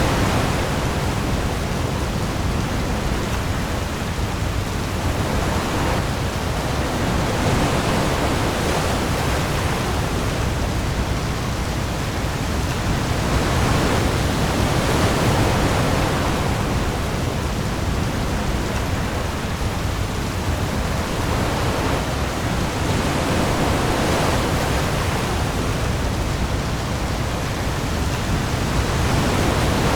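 Heavy rain pouring onto the sea with breaking waves: a dense, steady hiss that swells and eases every few seconds, over a deep low rumble.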